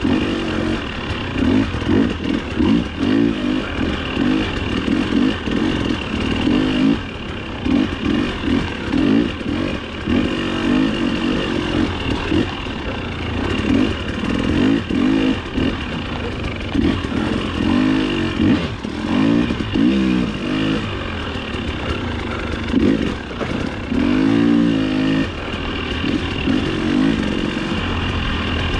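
Dirt bike engine revving up and down over and over as it is ridden hard on an off-road race course, the throttle opened and closed every second or two.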